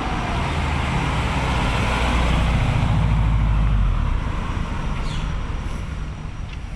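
Subaru WRX's turbocharged flat-four engine driving and accelerating, its rumble and rush growing to a peak about three seconds in, then dropping away and fading.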